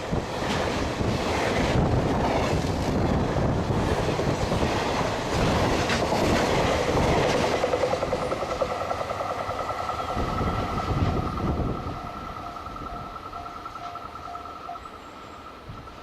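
Freight train passing at speed, its wheels clattering over the rail joints. About halfway through, a steady high whine comes in and lingers as the train moves away and the rumble fades.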